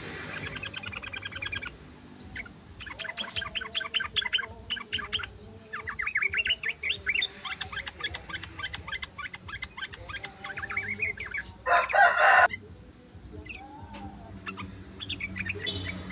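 Yellow-vented bulbul (trucukan) song: repeated runs of rapid, chattering chirps, with a loud, harsh burst about twelve seconds in.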